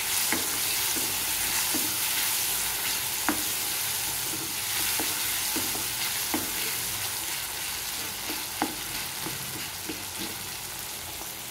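Tomatoes, onions, garlic and green chillies sizzling in oil in a pan as they are stirred and sautéed with a wooden spatula, with the spatula clicking against the pan now and then.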